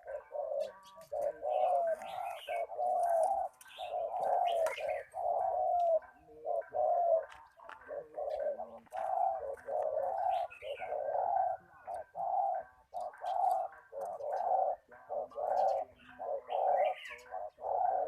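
Spotted dove cooing over and over, its coo phrases following closely one after another throughout.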